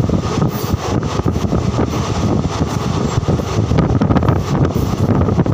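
Wind buffeting the microphone beside the window of a moving passenger train, over the train's steady running noise.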